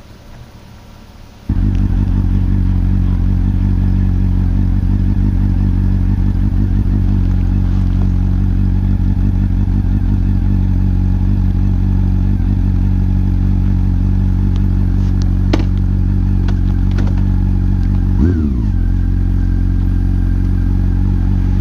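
Honda CB400SF's inline-four engine through a WR'S slip-on muffler, running steadily at cruising revs, loud and even in pitch. It cuts in suddenly after a quieter first second and a half. About 18 seconds in, the engine note drops sharply and climbs back, as at a gear change.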